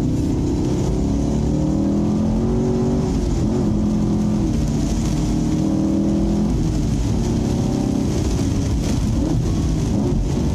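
Chevrolet Camaro SS's 6.2-litre V8 pulling hard, heard from inside the cabin, its pitch climbing and falling several times as the car accelerates and lifts through corners, over a steady hiss.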